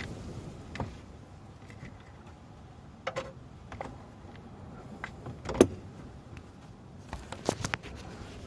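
Metal hand tools clicking and knocking against engine parts while a bolt is being worked loose with a 13 mm wrench. A few scattered clinks, a sharp knock about halfway, and a quick cluster of clicks near the end.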